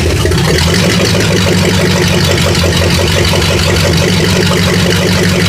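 Newly installed engine of a 1969 Chevelle running steadily on its first start, loud and evenly pulsing, with no exhaust system fitted yet.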